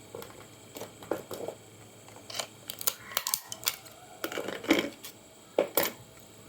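Irregular clicks and clatters of small hard objects being handled on a workbench, in loose bunches, the loudest near five seconds in and a sharp pair near the end.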